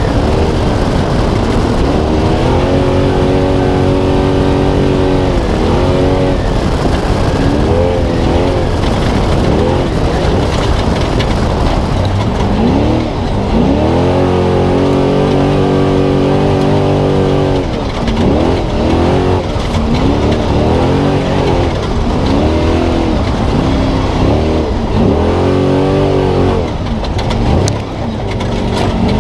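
Spec Trophy Truck's V8 engine heard from inside the truck, running hard: it holds high revs for a few seconds at a time, then rises and falls quickly through repeated throttle lifts and gear changes. Steady road and wind noise runs underneath.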